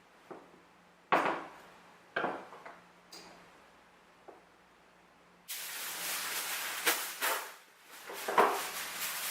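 Two sharp clanks of kitchenware, then, about halfway through, a loud steady rushing hiss switches on suddenly, with a few clinks over it.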